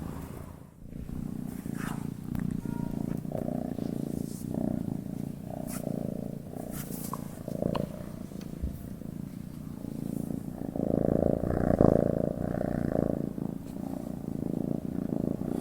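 A sleeping domestic cat purring steadily, the purr swelling and easing with each breath. It briefly fades about a second in and grows louder for a couple of seconds about eleven seconds in.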